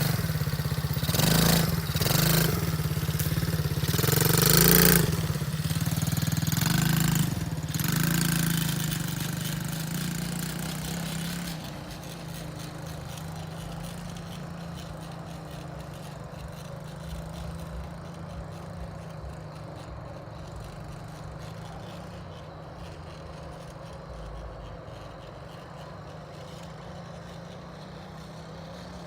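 Dirt bike engine revving several times, the pitch rising with each rev, over the first ten seconds or so. After that it runs steadily and more quietly.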